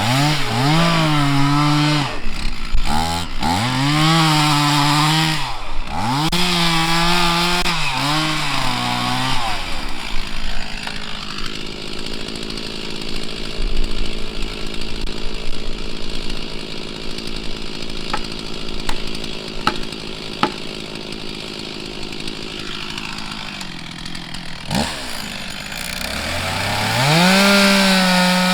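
Two-stroke chainsaw revved in several short throttle blips, each rising and falling in pitch, then idling steadily, and revved up again near the end.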